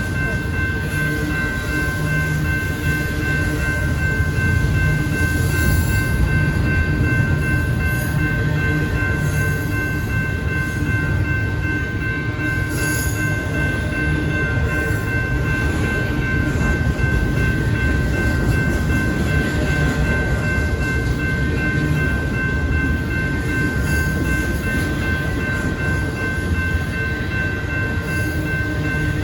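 A train rolling past at a railroad crossing: a steady low rumble of moving cars, with steady high ringing tones held under it throughout.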